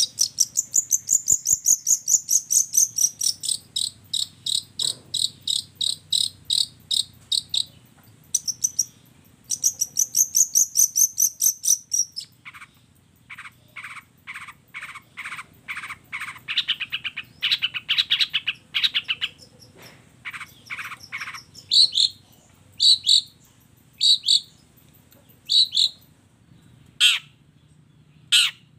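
Long-tailed shrike (cendet) song, as used in masteran: rapid high trills of many quick notes, then a run of quick repeated lower notes, then single sharp calls about once a second near the end.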